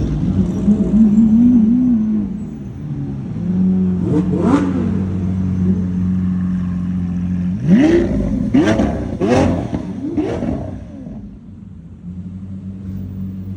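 A Lamborghini engine idling and being revved: one rev about four seconds in, then four quick rev blips in a row a few seconds later.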